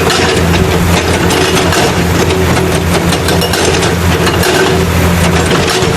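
Steady engine drone of a rock-crusher machine, running evenly with a low hum and a rattling noise over it.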